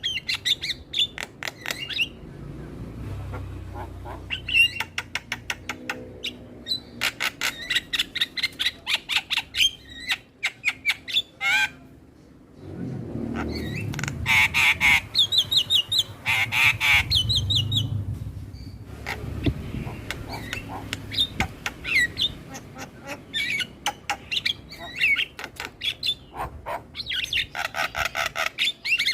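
A flock of mynas and starlings (jalak) chattering. The calls are rapid, rattling bursts with harsh squawks and short whistled glides, pausing briefly a little before the middle.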